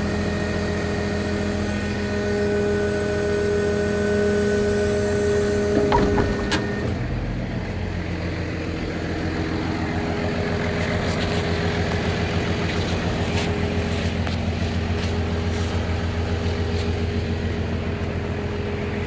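Bucket truck's 6.7 Cummins diesel engine running steadily with higher whining tones over it. About six seconds in there is a clunk, and the engine settles into a lower, steady running sound with the whine gone.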